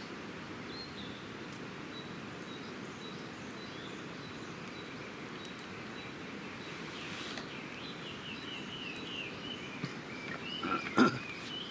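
Birds chirping in short high repeated notes over a steady low background rush. A single sharp knock comes near the end.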